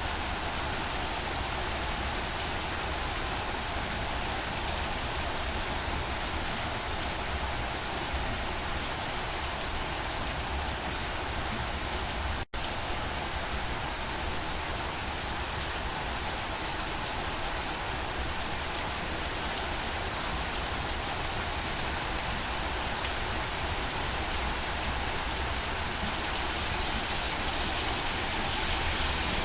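Steady rain falling, a constant even hiss of drops, broken by a momentary dropout to near silence about twelve seconds in.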